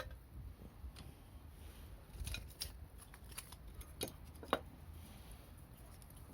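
Small wood campfire crackling faintly, with a few sharp separate snaps: one about a second in, a short cluster a little after two seconds, and two louder pops around four seconds, as the struggling fire begins to catch.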